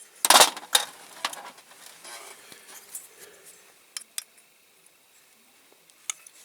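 Small metal tools clinking and scraping against a diecast model while a stubborn air cleaner part is worked loose: a loud scrape about a third of a second in, then scattered light clicks.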